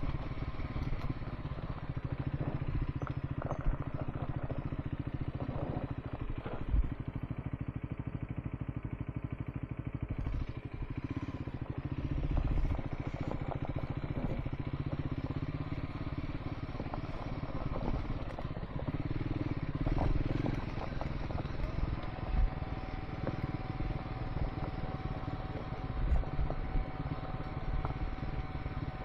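Triumph Scrambler 400 X single-cylinder motorcycle engine running steadily while riding on a gravel dirt track, with scattered knocks and clatter from the rough surface.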